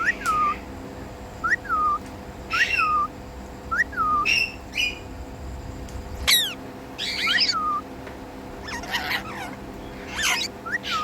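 Pet Indian ringneck parrot calling: a string of short whistled chirps that rise and drop back, about one a second, mixed with harsher squawks and one sharp falling whistle about six seconds in.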